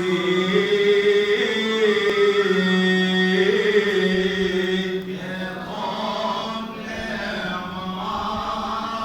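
Coptic liturgical chant: male voices singing a slow, drawn-out melody over a steadily held low note, with no clear words.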